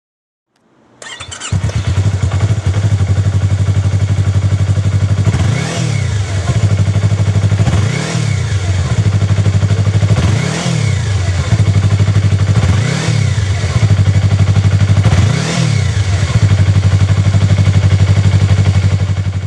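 Yamaha YZF-R25's 249 cc parallel-twin engine breathing through a WirusWin aftermarket slip-on muffler: it starts about a second in, idles, then is blipped five times, each rev rising and falling in pitch. It stops right at the end.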